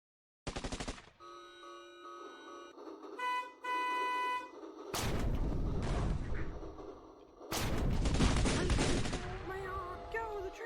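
Battle sound effects: a short burst of rapid gunfire, then a train horn tooting twice, the second toot louder. Two long, loud blasts of noise follow, and a wavering tone comes in near the end.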